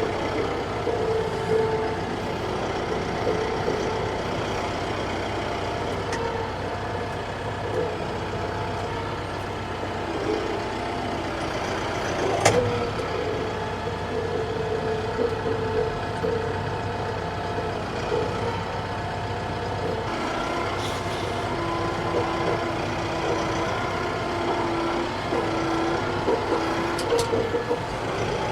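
TYM T654 tractor's diesel engine running steadily, with a whine that shifts in pitch now and then. A sharp knock about twelve seconds in.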